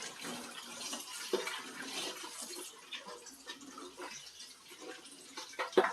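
Dishes being washed at a sink: water splashing and running, with scattered clinks of dishware and a sharp clatter near the end.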